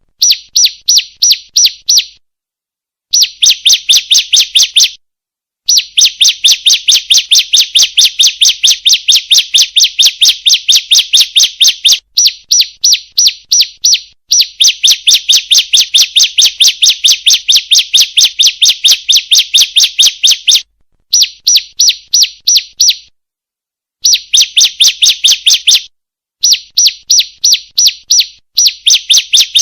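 Female ciblek (prinia) calling: a fast, evenly repeated string of sharp, high chirps, several a second, in runs of a few seconds with short breaks between them. It is used as a lure call to set other ciblek singing.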